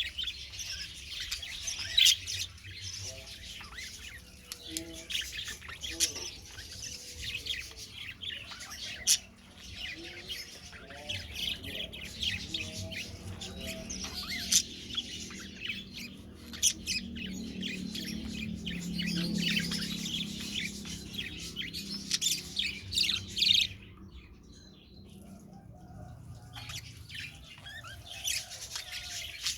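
Budgerigars chirping and chattering, with many quick high calls and squawks overlapping and a short lull near the end.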